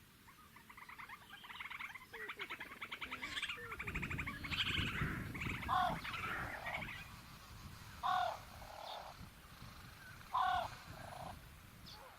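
Fork-tailed drongo calling: a fast, harsh, rattling chatter for the first few seconds, then three loud, short calls that slide downward, about two and a half seconds apart.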